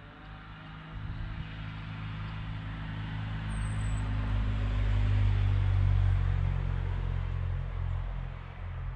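A motor vehicle's engine drone, low and steady in pitch. It grows louder over the first five or six seconds, then eases off slightly near the end.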